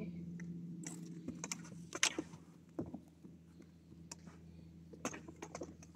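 A few scattered light taps and knocks from floorball play, stick and plastic ball, the sharpest about two seconds in, over a low steady hum.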